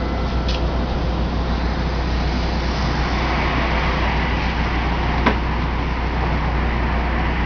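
Street traffic on wet roads: a steady low rumble with tyre hiss that swells as a vehicle passes, and a single sharp click about five seconds in.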